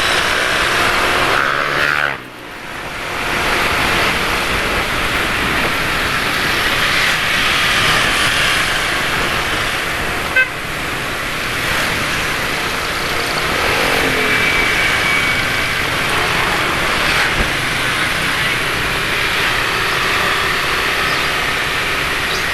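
Motorcycle and car traffic heard from a moving scooter: engines of passing vehicles over steady wind and road noise, with a brief horn toot about two-thirds of the way through.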